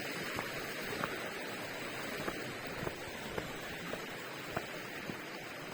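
Steady outdoor background hiss, with faint, irregular light clicks scattered through it.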